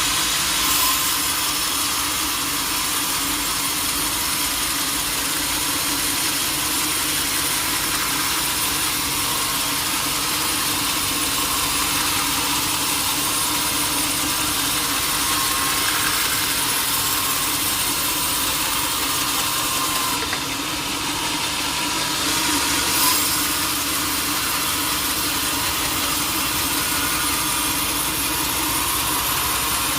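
Sawmill machinery running steadily: a constant machine drone with a hiss over it. It dips briefly about two-thirds of the way through, with a short knock soon after.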